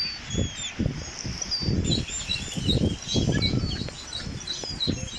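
Many small birds chirping in short, high calls that grow busier about two seconds in, over a series of low rumbles that are louder than the chirps.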